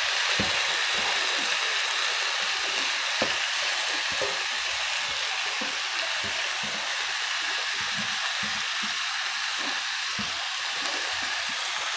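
Chicken and green marinade sizzling steadily in hot oil with browned onions, on a high flame, with a few faint soft taps as the paste is scraped into the pan by hand.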